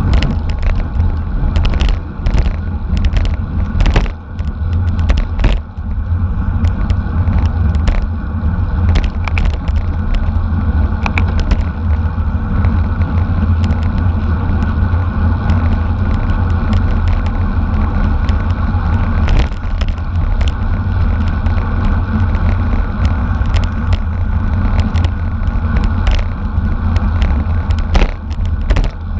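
Steady heavy wind rush on the microphone of a bicycle moving at racing speed, with frequent sharp clicks and knocks scattered throughout.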